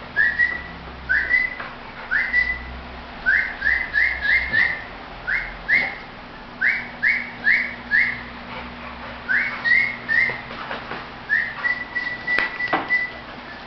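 A person whistling to call a dog: a string of short, quickly rising notes in uneven groups, ending with one longer held whistle near the end. A faint steady low hum runs underneath.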